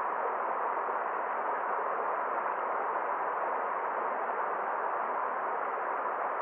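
Forest stream flowing: a steady, even rush of water with no single splash or other sound standing out.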